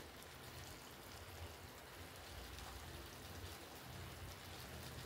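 Chicken pieces frying in oil in a pan, a faint, steady sizzle.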